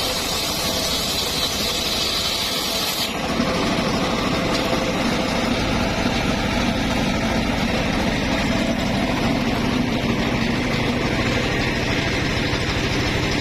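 Circular sawmill rig running steadily with a machine hum. A higher hiss over it stops abruptly about three seconds in.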